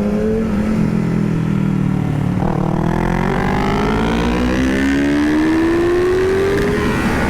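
Yamaha R6 sport bike's inline-four engine running under way, holding a steady note, then after about two and a half seconds a gear change and a long steady climb in pitch as the bike accelerates.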